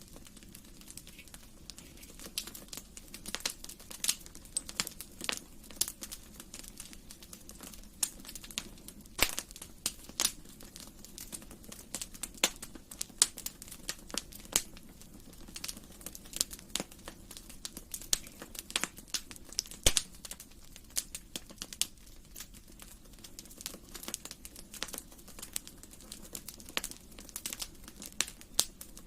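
Wood fire crackling in a fireplace: irregular sharp pops and snaps, several a second, over a faint steady low hiss.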